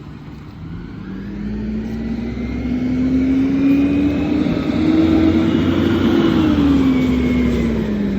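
Garbage truck engine revving up, its pitch and loudness climbing steadily for about five seconds, holding high, then dropping back near the end.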